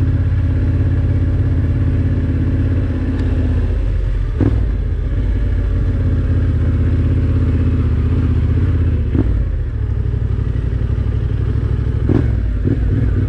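Yamaha Ténéré 700 adventure motorcycle's parallel-twin engine running steadily on a dirt trail, with a few short knocks about four and a half, nine and twelve seconds in.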